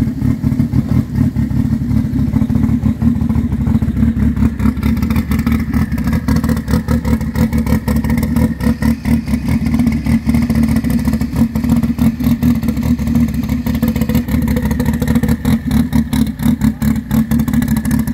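Renault 5 Turbo rally car's mid-mounted turbocharged four-cylinder engine idling steadily with a choppy, uneven beat.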